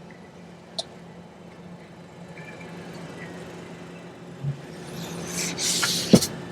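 Background vehicle noise with a steady low hum and a short click, then a swelling rush of noise near the end that ends in a sharp knock.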